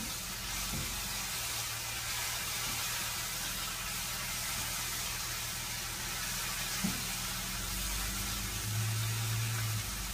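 Chopped onion, chile and tomatoes sizzling with a steady hiss in a nonstick frying pan over a gas burner, stirred with a plastic spatula, over a low steady hum.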